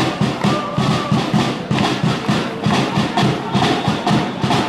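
A supporters' drum beaten in a fast, steady rhythm of about four beats a second, with some voices over it.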